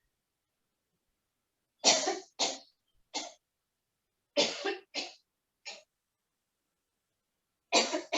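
A woman coughing in three fits, each of two or three harsh coughs, with silence between them. It is the acted cough of a gravely ill mother on her sickbed.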